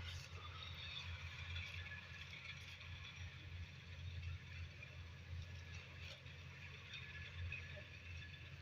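Combine harvester running steadily while harvesting wheat: a continuous low engine drone with a busy mechanical rattle from the machine's working parts.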